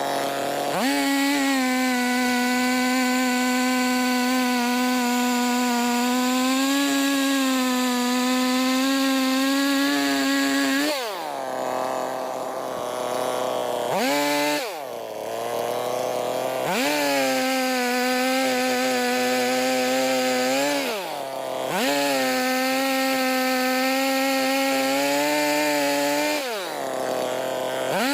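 Two-stroke chainsaw running at full throttle while cutting firewood logs. The engine note dips and winds back up four times as the throttle eases between cuts.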